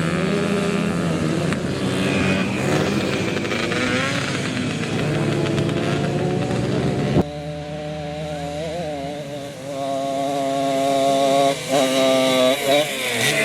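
Café racer motorcycle engines running off-road, their pitch rising and falling with the throttle. About halfway through the sound cuts abruptly to a single engine, which revs in a few quick blips near the end.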